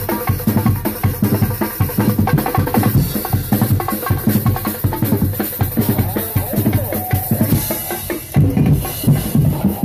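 Drum band playing a fast, driving beat, with many drums struck in quick succession.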